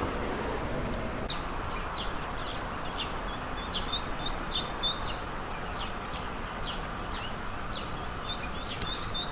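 Rapid, high-pitched bird chirps: short downward-sliding notes, two or three a second, starting about a second in, over a steady low background rumble.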